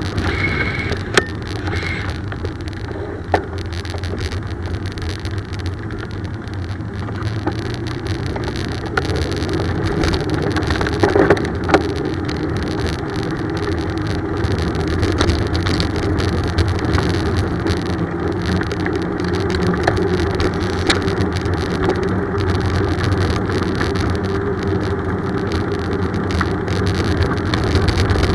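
Steady wind and road noise of a bicycle ride, with a few sharp clicks and rattles.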